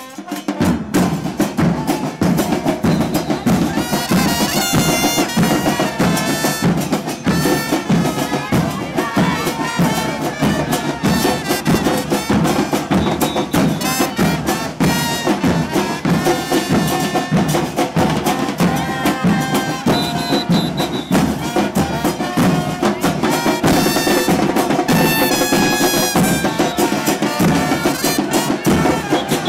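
Live carnival music: continuous loud drumming with a wavering melody line over it, kicking in about half a second in.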